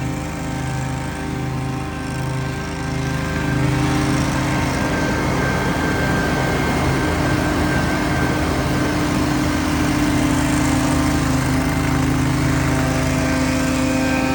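Gas-engine leaf blowers running steadily at high throttle, growing louder about three and a half seconds in.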